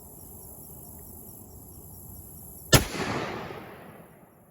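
A single gunshot about two and a half seconds in, followed by a long rolling echo that fades over about a second and a half, over steady background noise.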